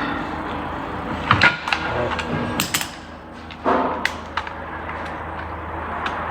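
Scattered clicks and light knocks of metal parts and hand tools being handled, over a steady low hum.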